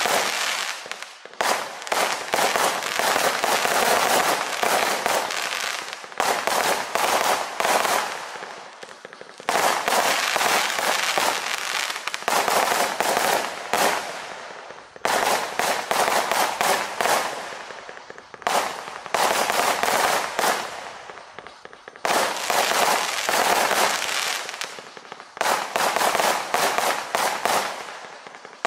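Klasek 'Fireworks show 520' compact firework cake, 20 mm calibre, firing in rapid volleys: dense runs of shots and bursting stars, in salvos a few seconds long separated by short lulls.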